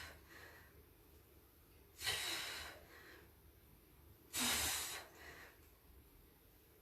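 A woman breathing out hard twice, about two and a half seconds apart, each a sharp noisy exhale with a softer breath just after it. The breaths are the effort of crunch repetitions.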